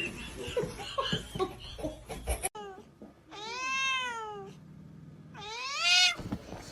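A domestic cat meowing twice: a long drawn-out meow that rises and falls, then a shorter meow that rises, the louder of the two. Faint knocks come before them.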